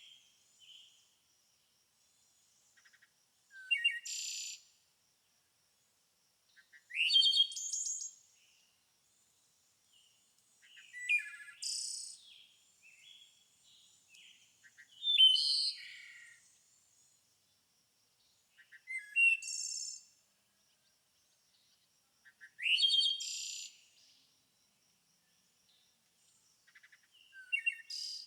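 A songbird singing short phrases of about a second each, with quick rising notes and buzzy trills, repeated about every three to four seconds. A faint, steady high-pitched pulsing runs underneath.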